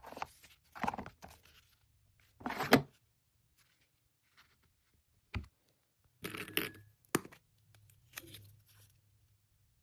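Packing materials being handled by hand: several short bursts of rustling and tearing paper, with two sharp clicks in between.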